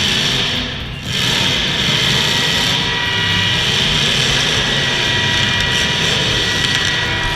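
Demolition derby cars' engines running loud and steady, with a short dip about a second in.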